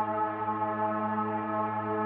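Steady, unchanging meditation drone of layered sustained tones with a gong-like hum, from a 963 Hz frequency-healing track.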